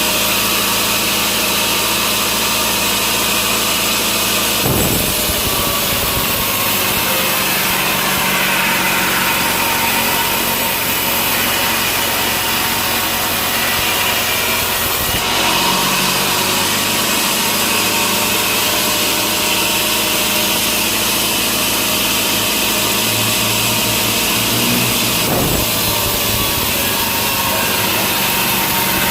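Sawmill saw running steadily while cutting through a log, with a few brief knocks along the way.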